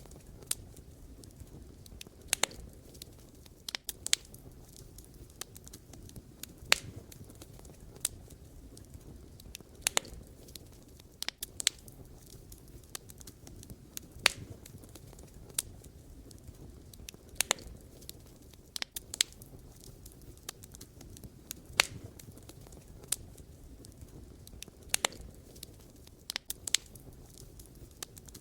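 Wood fire crackling: firewood logs burning with a low steady hiss and sharp, irregular pops and snaps every second or so.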